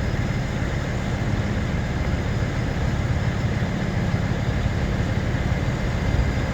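Large truck engines idling with a steady low rumble.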